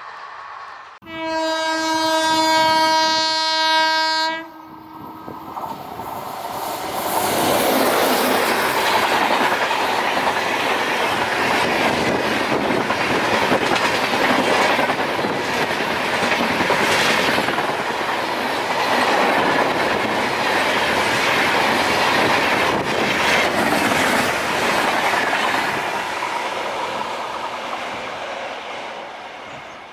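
Indian Railways locomotive horn sounding one long blast of about three seconds, followed by an express train passing at speed, its wheels clattering over the rail joints, then fading away near the end.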